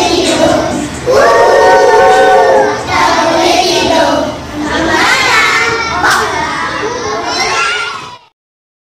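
A class of young children singing loudly together, holding notes for a second or more at a time. The singing cuts off suddenly near the end.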